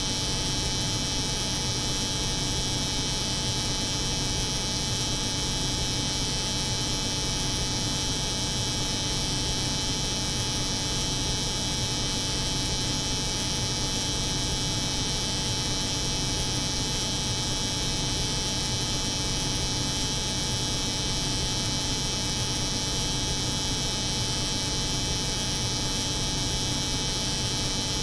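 Steady, unchanging layered hum: a cold room's refrigeration drone mixed with the continuous buzz of an electric hair clipper.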